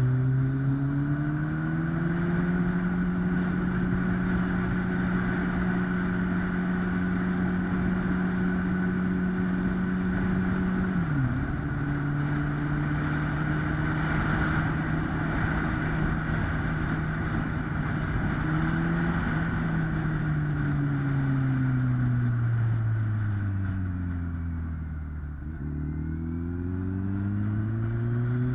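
2008 Kawasaki ZX-10R's 998cc inline-four engine under way. It climbs in revs, holds steady, and drops sharply as it shifts up about eleven seconds in. Later the revs fall away over several seconds and climb again near the end.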